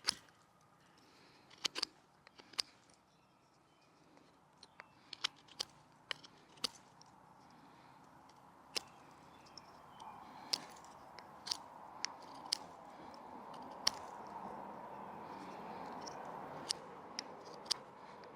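Victorinox Ranger Swiss Army knife blade whittling wood: irregular sharp clicks and scrapes as shavings are cut off, about one a second, over a faint background hiss that grows in the second half.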